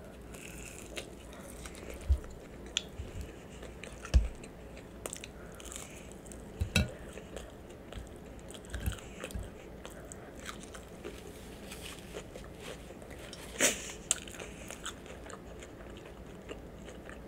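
A person biting into and chewing a mouthful of homemade beef burger close to the microphone: steady chewing with many short mouth clicks, and a few louder sharp clicks about two, four, seven and fourteen seconds in.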